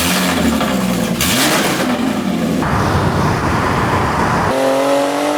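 Car engine and exhaust revving and accelerating in short spliced clips that change abruptly several times. Over the last second the engine note rises steadily.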